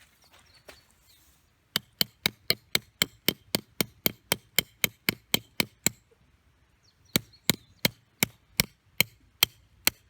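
Rapid, evenly spaced hammer strikes, about four a second, in two runs with a short pause between: tent stakes being driven into the ground to pitch a tarp.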